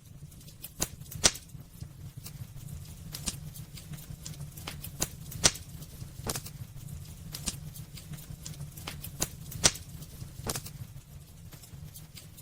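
Wood fire crackling in a fireplace: irregular sharp pops and snaps over a steady low rumble of the flames, with three louder pops about a second in, in the middle, and near the end.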